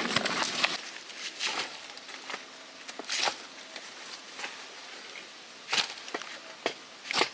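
Scattered, irregular crunches and scrapes of a tool and hands working forest soil and plant stems, as in digging up wild taro, with the loudest stretch in the first second.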